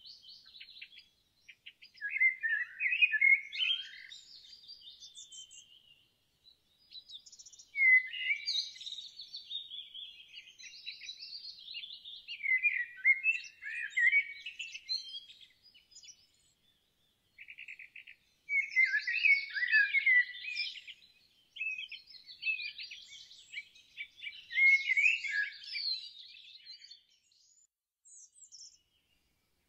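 Songbird song: rapid, high warbling phrases with quick trills, sung in bursts of a few seconds with short silent pauses between them.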